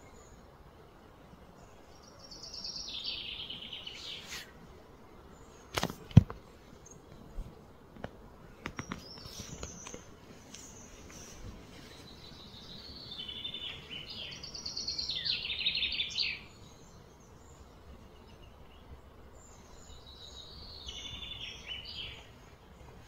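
Songbirds singing in three bouts of fast, trilled, falling phrases. Two sharp knocks come about six seconds in, followed by a few fainter clicks.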